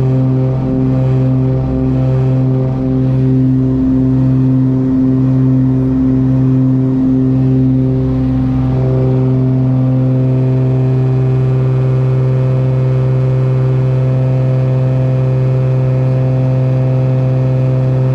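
The Cessna 402's twin piston engines and propellers drone loudly from inside the cockpit during the takeoff climb. For the first eight or nine seconds there is a pulsing beat about once a second, typical of the two propellers turning out of sync; then the beat stops and the drone runs smooth and steady as the propellers come into sync.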